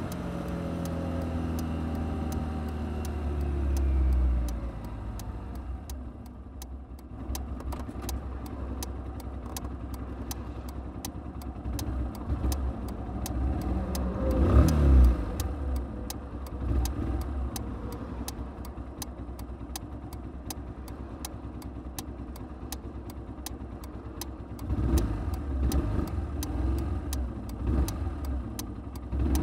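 Kymco Quannon 125 motorcycle engine slowing with a falling note, then idling at a standstill, then pulling away with rising revs near the end. A louder swell of passing traffic comes about halfway, and a faint regular ticking, about two or three a second, starts a few seconds in.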